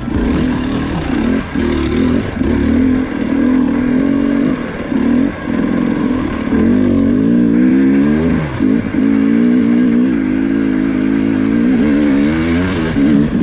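KTM two-stroke dirt bike engine revving up and down as it is ridden, its pitch rising and falling again and again.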